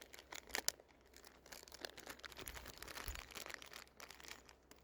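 Faint handling noise: scattered small clicks and a crinkly rustle, densest about halfway through, as a nut and bolt and their packaging are handled.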